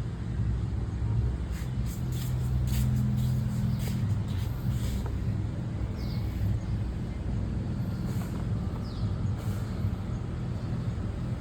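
Steady low machine hum, with a few sharp light clicks and knocks scattered through it.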